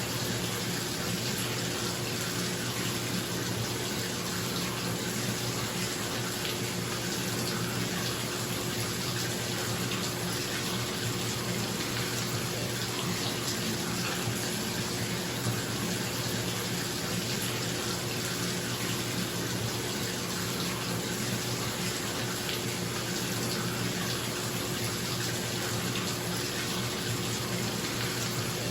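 Tap running into a bathtub, a steady rush of falling water, with a bathroom exhaust fan humming steadily underneath.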